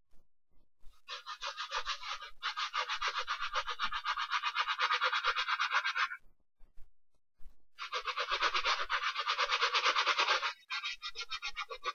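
Brush scrubbing a sneaker in rapid back-and-forth strokes during cleaning, in two long bouts with a short pause between, then lighter, patchier strokes near the end.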